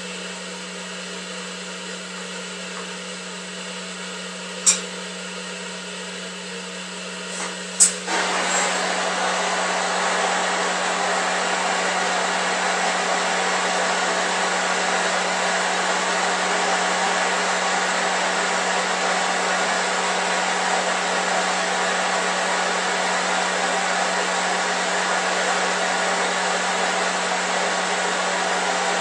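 Bronze brazing onto steel rebar: a steady hum with two sharp clicks, then about eight seconds in a louder, even rushing noise starts and holds steady, the sound of the brazing heat running.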